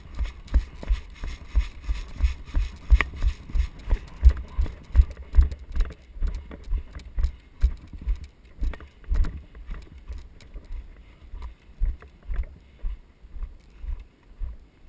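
Footsteps of a person walking briskly on the ground, about two to three heavy thumps a second, each footfall jolting a body-worn camera, with gear rustling between steps.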